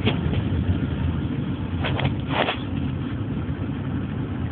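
Car running on the road, heard from inside the cabin: a steady low rumble of engine and tyres, with two short hisses about two seconds in.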